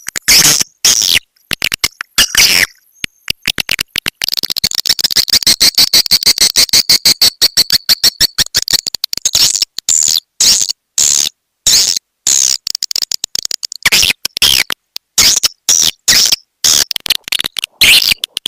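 Swiftlet lure call of the 'walet petir' type: short, high swiftlet chirps in quick succession. From about four seconds in they run together into a dense, rapid buzz of clicks for several seconds, then break back into separate chirps.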